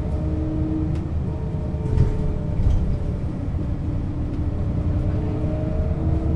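A 1996 Setra S 315 UL city bus under way: steady low engine rumble with a whine from its ZF gearbox, and a few light knocks from the body.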